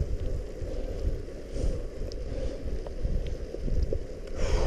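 Wind buffeting the microphone and tyre rumble of a mountain bike riding over a wet, muddy trail, with scattered small clicks and a short hiss near the end.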